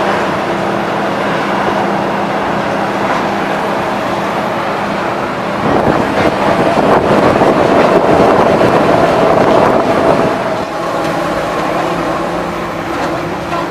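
Demolition excavator's diesel engine running steadily, growing louder for about five seconds in the middle with a dense run of cracking and crunching as material is broken.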